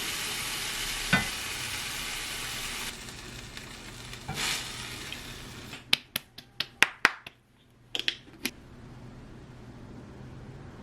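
Food sizzling in a frying pan, with a single knock about a second in; the sizzle drops away about three seconds in. Then comes a quick run of about seven sharp clicks, with a few more a second later.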